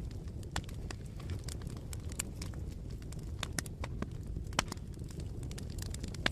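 Campfire burning, with irregular crackles and sharp pops from the burning wood over a steady low rumble of the flames.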